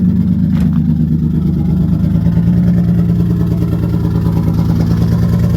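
Turbocharged Infiniti G35's 3.5-litre V6 running steadily at idle, soon after starting again following a long lay-up, with its exhaust downpipe not yet finished. A brief click sounds about half a second in.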